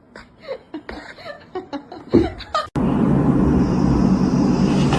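A person laughing in short bursts of chuckles. About three seconds in, it cuts off abruptly and a loud, steady rumbling noise with a low hum takes over.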